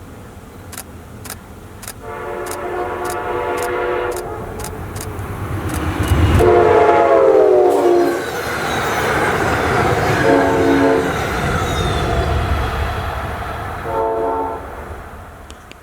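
Steam whistle of Strasburg Rail Road No. 90, a 2-10-0 Decapod steam locomotive, blowing four blasts: two long, the second falling in pitch as the engine passes, then two short. Sharp exhaust chuffs come about twice a second at the start, then the rumble and clatter of the passing train.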